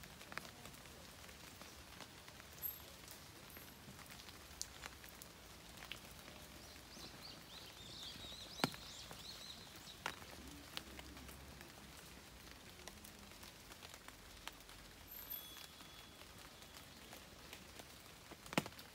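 Rain falling, with scattered sharp ticks of single drops close by; a bird twitters faintly for a few seconds around the middle.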